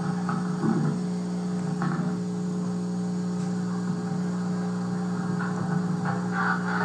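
A steady low hum with no change in pitch, with a few faint brief rustles over it.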